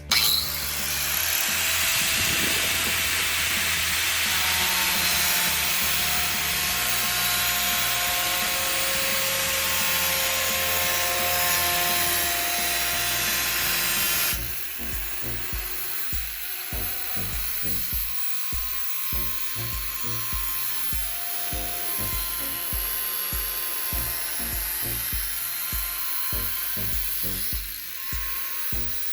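Woodworking on a wooden handle: a steady, rasping power-tool sound for about fourteen seconds that cuts off suddenly, then quieter rubbing strokes about twice a second.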